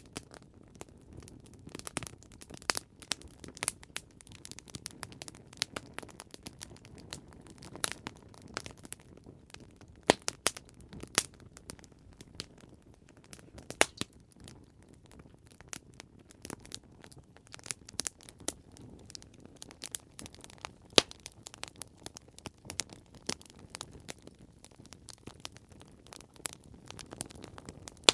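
Campfire crackling: irregular sharp pops and snaps of burning wood over a low, steady rumble of the flames, with a few louder pops scattered through.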